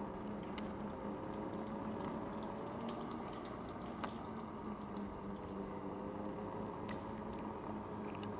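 Electric unicycle riding: a steady hum from the hub motor, its tones drifting slightly in pitch, over a steady rushing of tyre and wind noise, with a few faint clicks.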